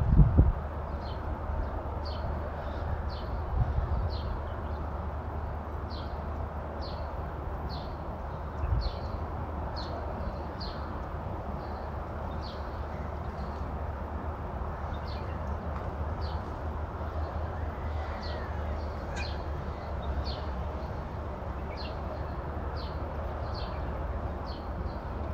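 Steady outdoor background noise with a small bird chirping repeatedly, a short high note about once a second. There are a few low thumps on the microphone, the loudest right at the start.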